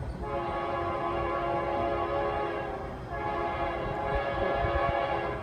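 Locomotive air horn sounding two long blasts, several steady notes together, with a brief gap between them.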